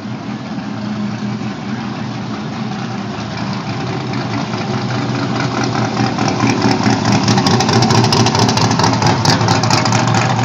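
Car engine running and growing steadily louder, with a rapid crackle joining in about six seconds in.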